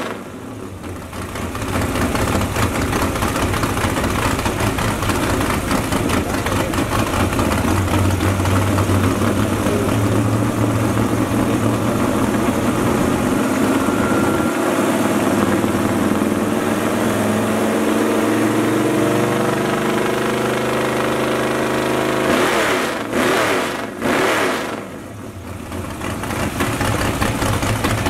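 V8 crate engine running on a demo stand with long-tube headers, its pitch climbing slowly as the revs are raised and held. About three-quarters of the way through come two sharp blips of the throttle. It dips briefly, then settles back into steady running.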